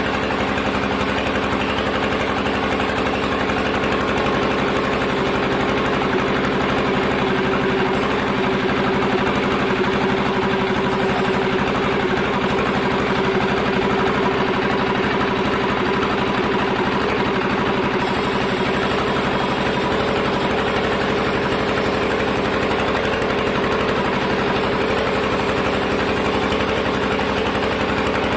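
Sawmill machinery running steadily, a continuous engine-like hum with several steady tones.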